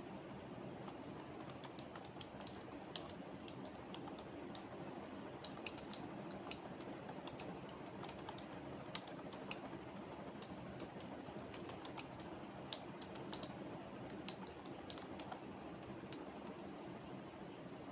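Typing on a computer keyboard: irregular key clicks in uneven bursts, over steady background noise.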